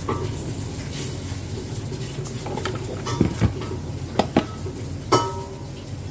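Hard objects clinking and knocking together in a few separate sharp clicks, two of them ringing briefly like metal, over a steady low hum.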